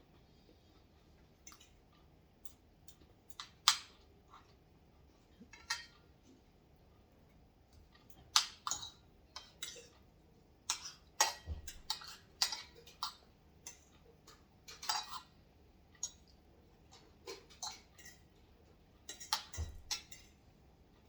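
Cutlery clinking against dishes while eating: irregular sharp clicks and taps, a few louder than the rest, with two duller knocks about eleven seconds in and near the end.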